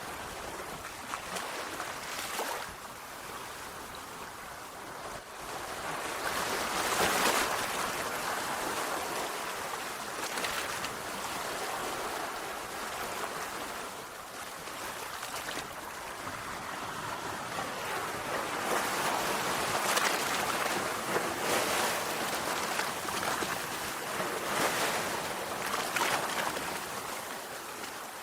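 Sea waves washing onto a shore: a steady rush of surf that swells louder now and then, most strongly about seven seconds in and again around twenty and twenty-six seconds.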